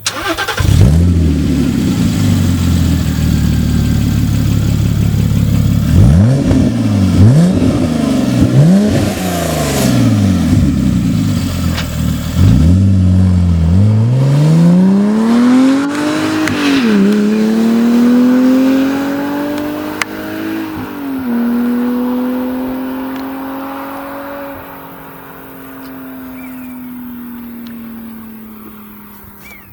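Porsche Boxster 987 Mk2 flat-six through a CARGRAPHIC sport rear silencer with exhaust flaps, revved in several quick blips, then accelerating hard through two upshifts and fading as it drives away.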